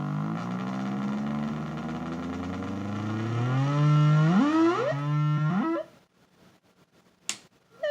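Improvised electronic noise music: a loud drone with many overtones, run through distortion, delay and reverb pedals, its pitch swooping upward in several repeated glides before it cuts off suddenly about six seconds in. A single sharp click follows near the end.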